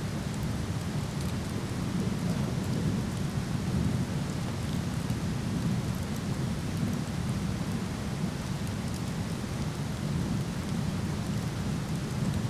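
Waterfall rushing steadily with a deep low rumble, and a few faint crackles from a wood fire.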